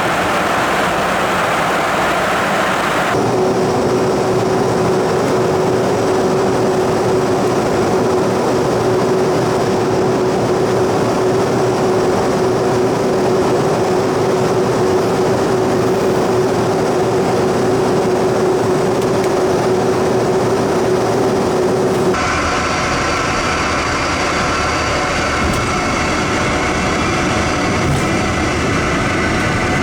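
Steady jet noise from an Embraer Phenom 300 business jet: a continuous rush of engine and airflow. The sound changes abruptly twice, about three seconds in and about 22 seconds in, and a steady hum runs through the middle stretch.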